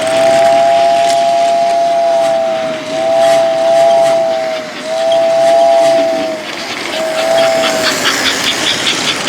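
Vintage American Flyer toy train's electric whistle blowing four blasts, each a steady two-note chord, the first longest and the last short. The train runs underneath as a steady background noise.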